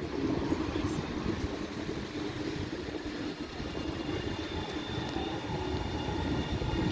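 Tram approaching on its rails: a steady low rumble growing louder, with a thin high whine of several tones building from about halfway in.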